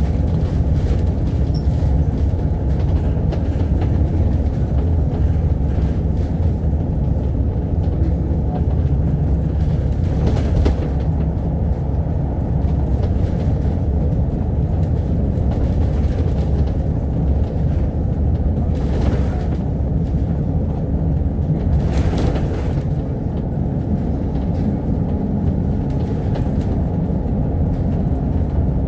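Double-decker bus running at a steady cruising speed, heard from inside the cabin: a constant deep engine-and-road rumble. A few brief hissing swells come in around ten, nineteen and twenty-two seconds in.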